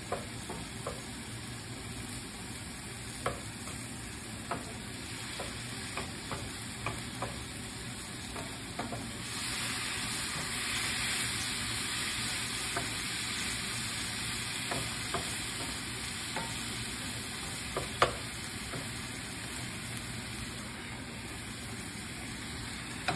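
Diced ham, garlic and onion sizzling in oil in a nonstick frying pan as the garlic browns, stirred with a wooden spatula that knocks lightly against the pan now and then. The sizzle gets louder about nine seconds in, and one sharper knock comes near the end.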